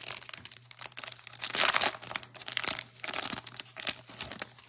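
Plastic crinkling and rustling in irregular bursts as trading cards are handled and slid into soft plastic penny sleeves, loudest about a second and a half in.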